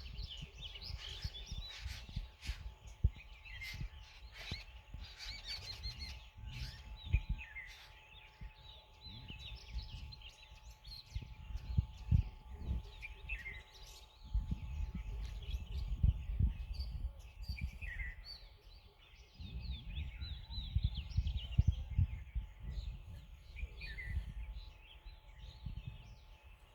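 Several wild birds chirping and calling over and over, with short rising and falling notes, over outdoor ambience with low rumbling gusts that come and go.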